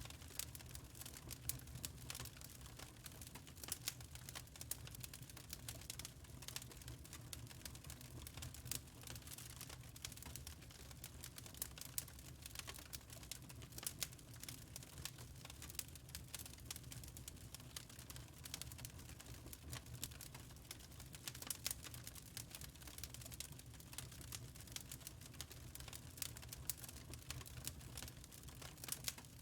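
Wood fire crackling in a fireplace: quiet, irregular sharp pops and snaps over a low steady rumble.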